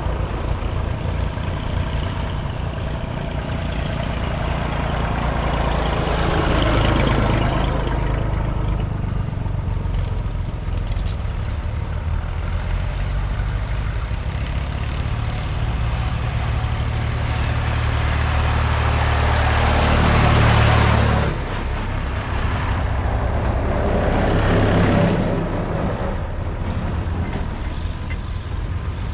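Vintage tractor engines running as tractors pass one after another, with a steady low engine drone and louder swells as each one goes by, the biggest about seven, twenty and twenty-five seconds in.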